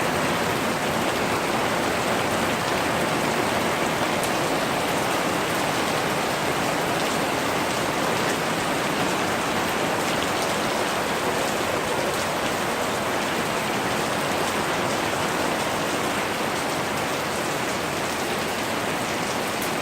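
Steady rain falling, an even hiss of drops with faint scattered drop ticks.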